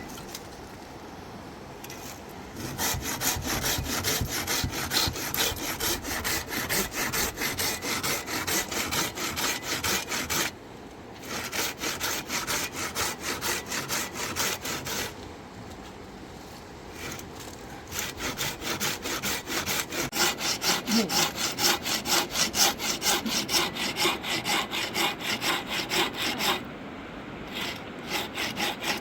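Hand saw cutting through wood in steady, quick back-and-forth strokes, stopping briefly three times.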